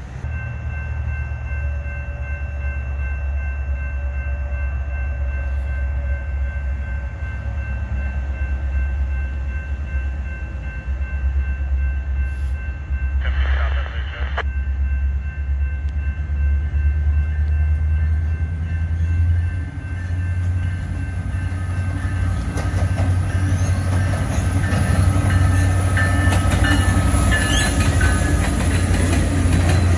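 BNSF freight train's diesel locomotives approaching and passing, a heavy low rumble growing louder. Near the end the wheels of the passing freight cars clatter over the rail joints.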